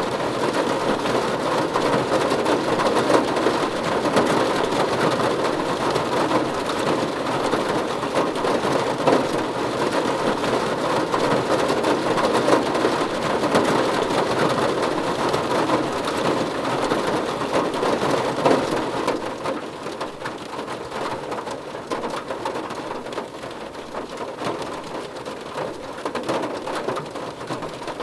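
Steady heavy rainfall, a dense even hiss of drops, that grows quieter about two-thirds of the way through.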